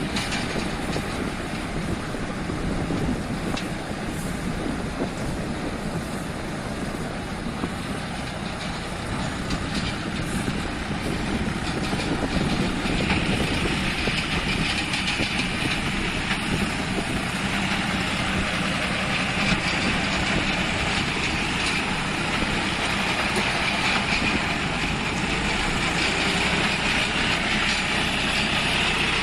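Multi-crop baler running with the engine that drives it: a steady mechanical noise. About halfway through, a higher-pitched hiss grows louder and the overall level rises a little.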